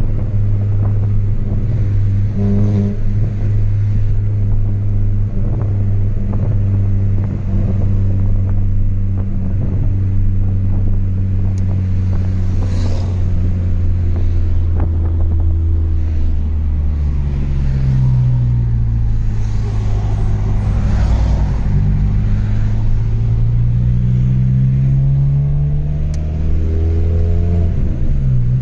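Chevrolet Astra 2.0 four-cylinder engine with a straight-through exhaust and no muffler, heard while driving. It runs at a steady cruise, then the engine note falls, climbs steadily under acceleration, and drops sharply near the end.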